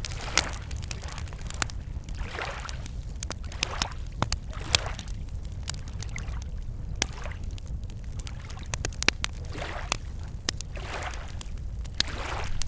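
Wood campfire crackling and popping in sharp, irregular snaps, while small lake waves lap against the shore in soft washes about every two seconds, over a steady low rumble.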